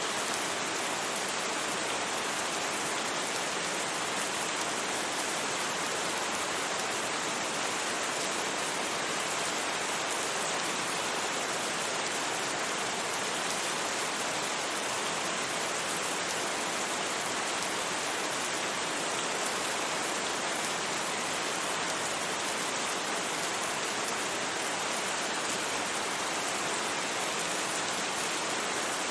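Steady rain, an even hiss with no thunder and no distinct drops standing out.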